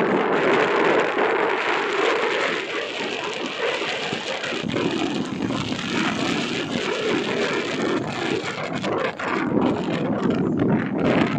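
Wind buffeting the microphone of a moving vehicle, a continuous gusty rumble over the faint sound of the ride along the road.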